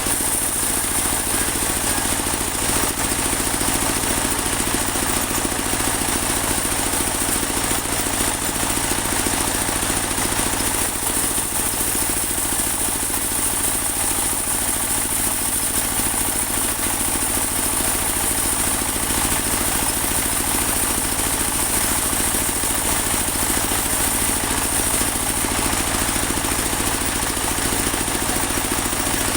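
Engine of a portable bandsaw sawmill running steadily, with a steady high whine over the engine noise.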